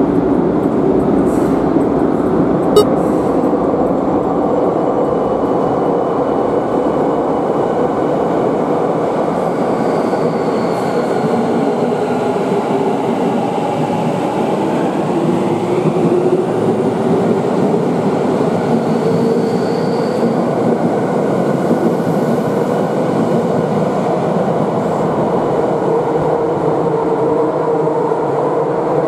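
Electric commuter train running: a steady rumble with a faint motor whine that slides up and down in pitch, and one sharp click about three seconds in.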